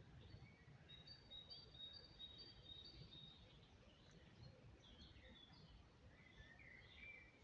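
Faint chirping of small birds: a run of short high notes repeated about twice a second in the first few seconds, and a few lower notes near the end, over a low outdoor background rumble.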